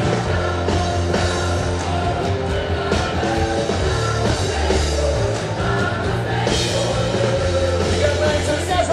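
Rock music: a full band with guitars, a steady bass line and singing.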